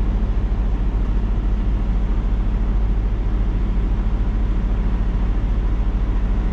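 Peterbilt 579 semi truck's diesel engine idling, a steady low rumble with a fine, even pulse.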